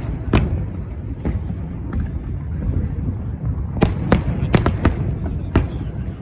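Fireworks display going off: irregular sharp bangs over a continuous low rumble, with a quick run of bangs a little past the middle.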